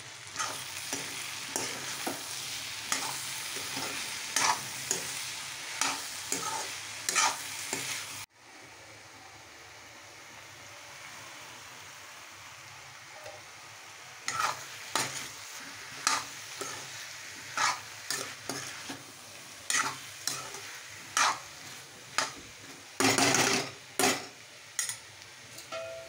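Potato and spinach sizzling in a steel kadhai while a utensil stirs it, scraping and knocking against the pan about once a second. About 8 seconds in the sound breaks off and comes back as a quieter sizzle, and the stirring knocks start again a few seconds later.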